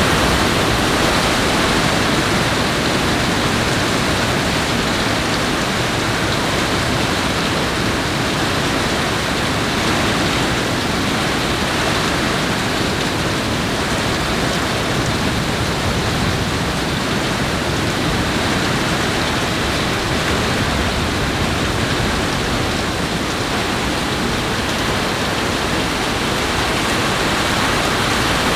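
A steady, loud rush of heavy rain and falling water, even throughout with no thunderclaps.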